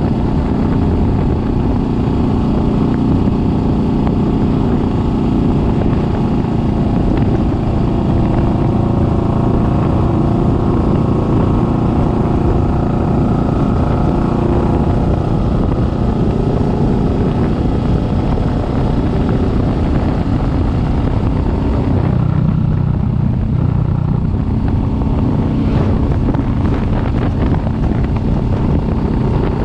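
Kawasaki Vulcan S 650's parallel-twin engine running under way on the road, a steady note that changes pitch about three-quarters of the way through.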